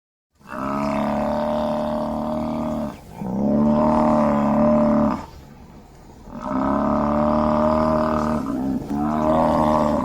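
African buffalo lowing: a series of about four long, steady, deep calls, each lasting two to three seconds with short breaks between. The sound starts abruptly about half a second in.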